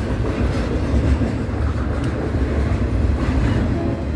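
Double-stack intermodal train's well cars rolling past close by: a steady low rumble of steel wheels on rail, with light clicks over the rail joints.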